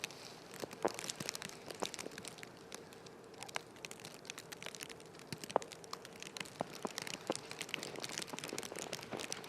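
Footsteps crunching on snow, with irregular crackling and crunching at roughly walking pace over a faint steady hum.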